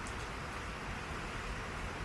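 Steady rain falling, a constant even hiss of patter with no single drops standing out.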